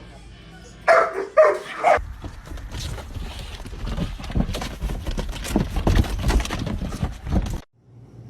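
A dog barking three times, loud and short, about a second in. Then several seconds of rustling and knocking noise that cuts off suddenly near the end.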